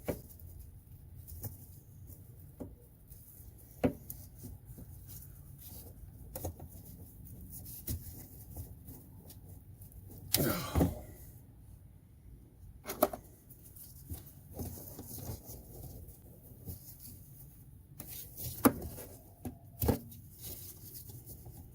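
Intermittent clicks and knocks of hand work on car trim and light fittings, scattered over a low steady hum. A brief bunch of knocks comes about ten seconds in, and there are single sharp clicks near the end.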